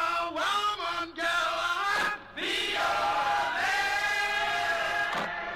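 Several voices singing together, holding notes and sliding between pitches, with a short break a little over two seconds in.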